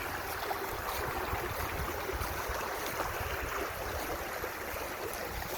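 Steady rush of fast-running floodwater from a rain-swollen creek, with a low rumble underneath.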